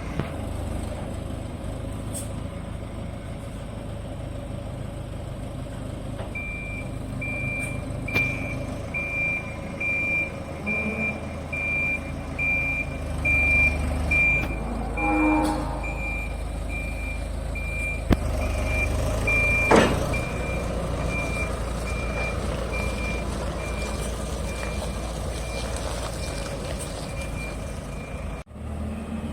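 Diesel engine of a Dieci telehandler running while its reversing alarm beeps steadily, about once a second, starting some six seconds in and stopping near the end. A few sharp knocks come over the engine, the loudest about two-thirds of the way through.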